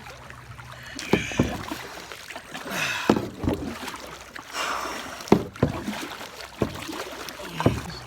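Kayak paddle strokes splashing in fast-moving floodwater, with several sharp knocks in between.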